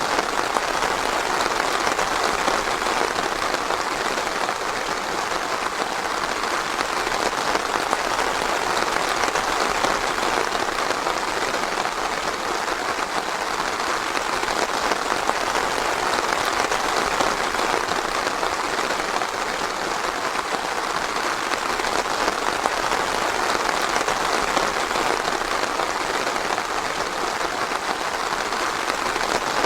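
Steady rain falling: an even, unbroken hiss of dense patter, with no thunder.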